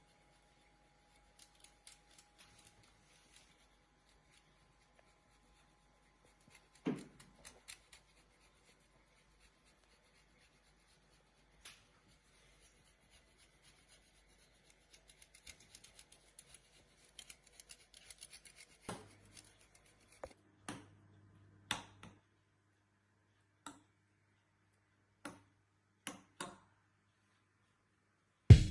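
Quiet kitchen food-preparation handling: soft scraping and clicking of utensils, with one louder knock about seven seconds in and a run of light clicks and taps in the second half.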